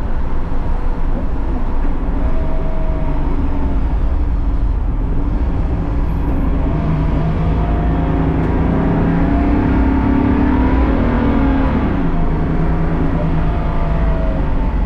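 BMW race car engine running hard under a heavy low rumble, its pitch rising and then dropping back about two-thirds through.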